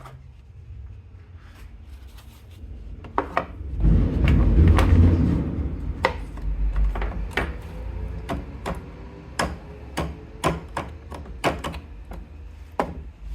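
A series of sharp clicks and knocks, with a low rumble that swells about four seconds in and fades after about six seconds.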